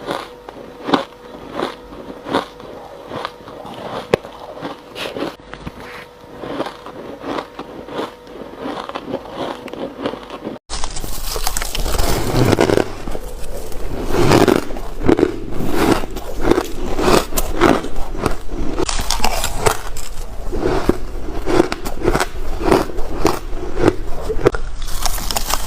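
Shaved ice being bitten and chewed close to the microphone, a steady run of sharp crunches. About ten seconds in the sound breaks off abruptly and resumes louder and denser, with heavier, more frequent crunches.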